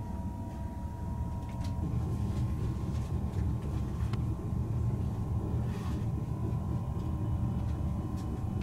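Inside the passenger cabin of a EuroCity train running along the line: a steady low rumble from the moving train, with a faint steady whine above it and a few light ticks.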